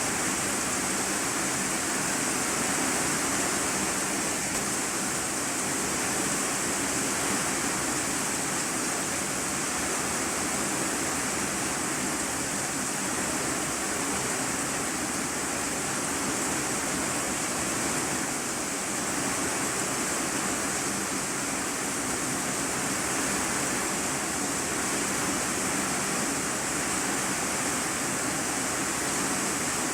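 Heavy rain drumming steadily on a corrugated iron-sheet roof, heard from the room below as an even, dense hiss.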